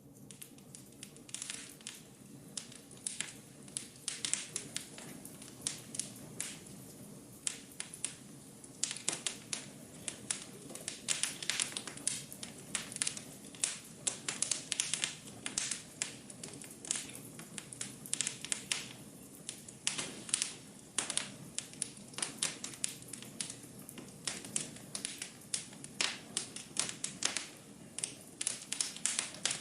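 Wood fire in a fireplace crackling: irregular sharp pops and snaps, several a second, over a low steady hiss of the flames.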